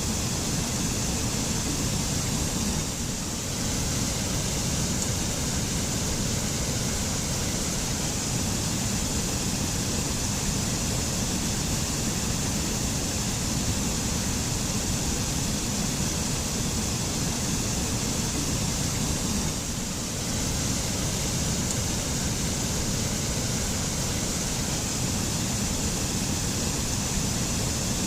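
Mountain waterfall rushing steadily, falling water making a constant full hiss and rumble.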